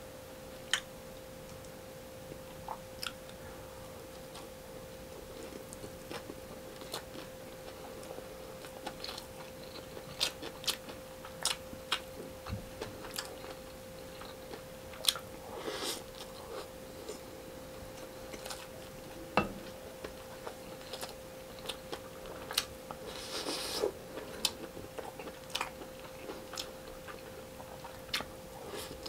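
Close-up chewing of rice and fried tilapia eaten by hand, with many short wet mouth clicks and smacks scattered throughout. A steady faint hum runs underneath.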